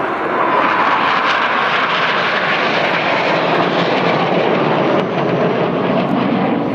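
Jet noise from Red Arrows BAE Hawk T1 jets flying a display pass, steady and loud. A whining tone in the first couple of seconds gives way to a deeper sound later on.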